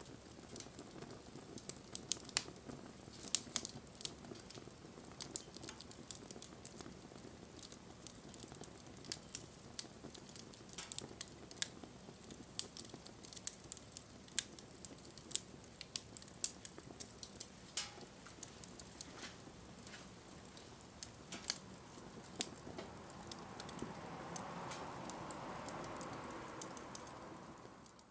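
Wood fire crackling, with irregular sharp pops and snaps over a faint steady hiss. A soft rushing sound swells in the last few seconds.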